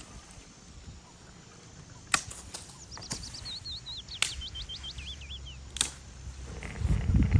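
A small songbird sings a quick run of chirping notes that fall in pitch over about three seconds, set among four sharp cracks. A low wind rumble on the microphone rises near the end.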